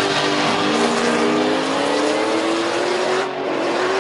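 Car engines at full throttle as two cars accelerate down a drag strip. The engine note dips briefly about half a second in, then climbs steadily in pitch.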